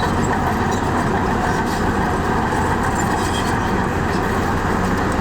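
Heavy diesel earthmoving machinery running steadily, a constant engine drone with a low hum underneath.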